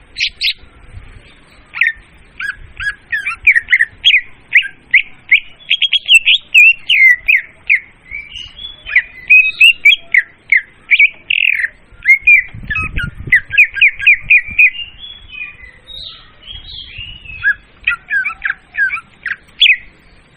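Leafbird (murai daun) song: a fast, continuous run of sharp, varied chirps and whistled notes, with a brief pause about fifteen seconds in.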